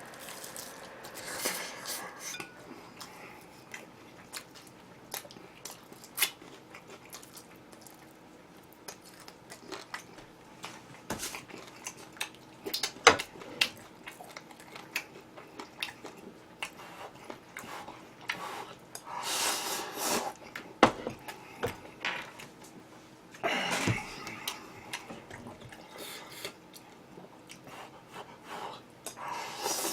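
Eating sounds: utensils clinking against bowls and dishes, with chewing. Sharp single clicks come every few seconds, with longer noisy stretches of eating a little past the middle and again about two-thirds in.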